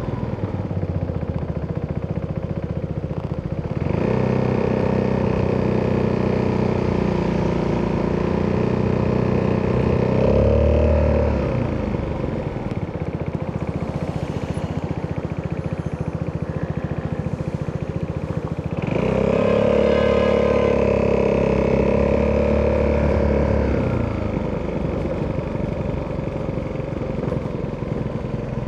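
Single-cylinder four-stroke engine of an Italjet Dragster 200 scooter with an Akrapovic exhaust, ridden in traffic. It pulls under throttle twice, about four seconds in and again around nineteen seconds, briefly rising in pitch near the tenth second, and drops back to a lower, quieter note between the pulls and near the end.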